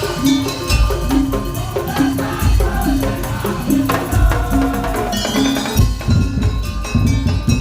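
Madurese daul percussion ensemble playing: a short melodic figure repeats about twice a second over deep drum beats. About six seconds in, a dense run of low drum strokes takes over.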